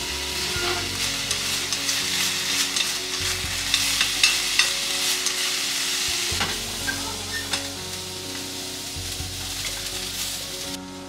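Maitake mushrooms sizzling in a hot frying pan as they are stir-fried, with scattered clicks of stirring against the pan. The sizzling cuts off suddenly near the end.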